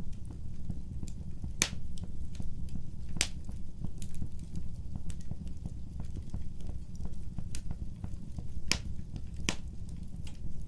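Wood fire burning: a steady low rumble of the flames with sharp, irregular crackles and pops of the burning wood, a few louder snaps standing out among many small ones.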